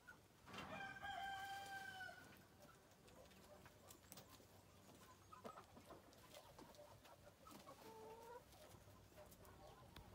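A bird's long, level call, faint, starting about half a second in and lasting about a second and a half; a shorter call about eight seconds in.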